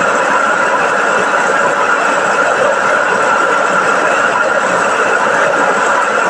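Chao Phayu small rice milling machine running steadily while milling rice, a loud, even mechanical rushing noise with no change in pace.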